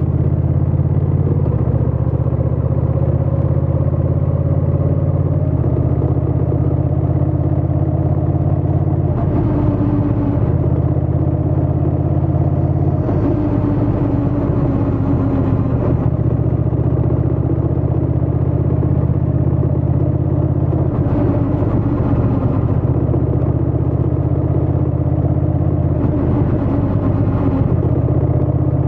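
Honda Rebel 1100 DCT's parallel-twin engine and exhaust running steadily while the motorcycle is ridden at a cruise, the engine note drifting slowly up and down.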